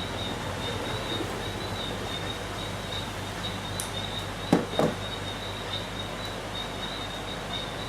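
Steady background hiss with a faint high whine and a low mains hum, broken by two short clicks a fraction of a second apart about halfway through, as electrical wires are handled and joined.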